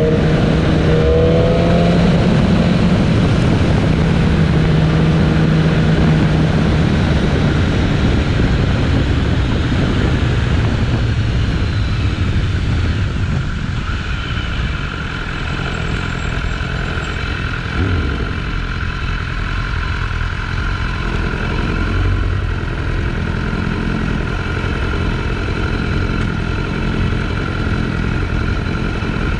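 BMW S1000RR's inline-four engine pulling under way, its note rising over the first couple of seconds, then buried under steady wind rush on the microphone. The overall level drops a little about halfway.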